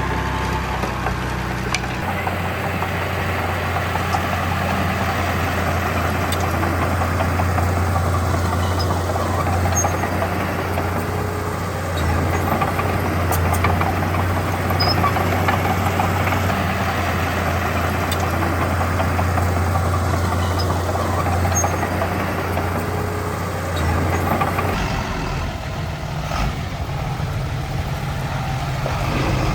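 Heavy diesel earthmoving machinery running steadily, with the engine note shifting about two seconds in and again near the end.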